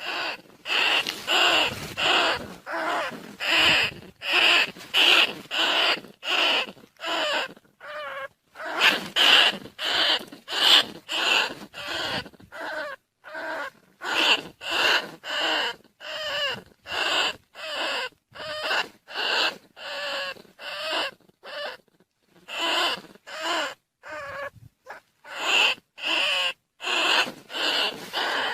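Rat decoy call for rice-field rats and bandicoot rats: short squeaking calls repeated about one and a half times a second, with a few brief pauses.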